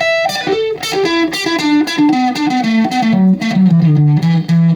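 Electric guitar played through a small single-ended EL84 tube amp, a Fender 5F2-A Champ-style build: a noodled single-note line whose plucked notes step down in pitch, settling on a held low note near the end.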